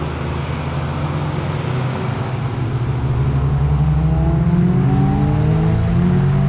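Chevrolet Nova's engine under power, accelerating: its pitch climbs steadily and it gets louder from about halfway through.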